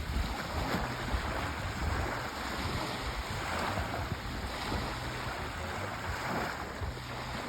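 Sea waves washing onto a shore: a continuous rush of surf that swells and eases irregularly.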